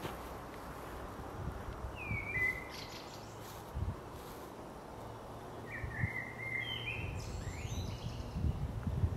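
A songbird calling: one short falling call about two seconds in, then a longer run of chirping notes from about six seconds, over steady outdoor background noise. Soft footsteps near the end.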